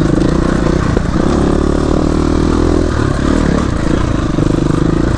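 Dirt bike engine running under trail riding, the revs rising and falling: the note climbs about a second in, drops near three seconds, then picks up again.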